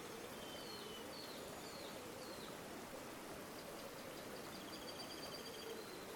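River water flowing steadily, with small birds chirping over it: a few short chirps in the first couple of seconds and a rapid high trill near the end.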